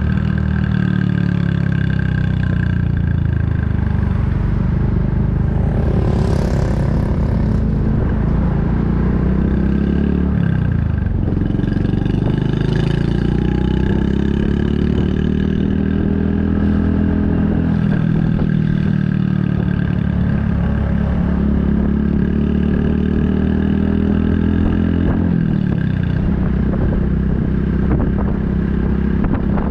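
Honda Super Cub 110's air-cooled single-cylinder four-stroke engine through an aftermarket Kitaco mini Cabton muffler, running under way, its pitch rising and falling several times with throttle and gear changes.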